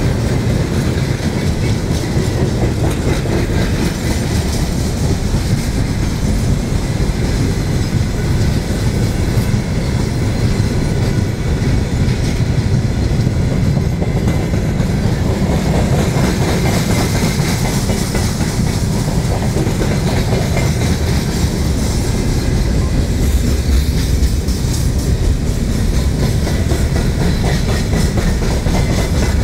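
A long freight train of tank cars, flatcars and boxcars passing close at speed: a steady, loud rumble with the clatter of wagon wheels over the rails.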